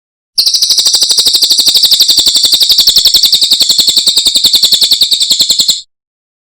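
Cililin bird singing a loud, rapid, even trill of high notes, about eleven a second. It starts about half a second in and cuts off abruptly near the end.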